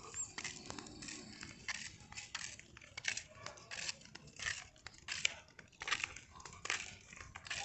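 Irregular scratchy rasping and crinkling, a few short sharp strokes a second.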